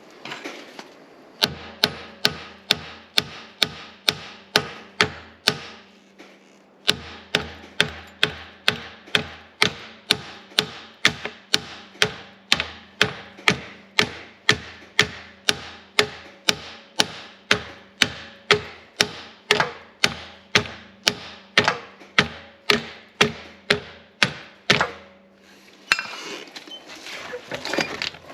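Steady, evenly paced hammer blows on metal, a little over two a second, with a short break about six seconds in, driving a tight-fitting part back into place on a mower's driveline.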